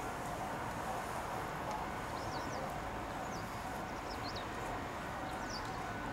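A few short, high bird chirps scattered across the middle and later part, over steady outdoor background noise with a faint steady hum.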